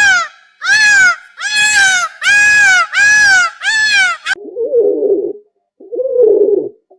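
A bird gives about six loud calls in quick succession, each rising and falling in pitch. The calls cut off suddenly about four seconds in, and a different bird follows with three low cooing calls.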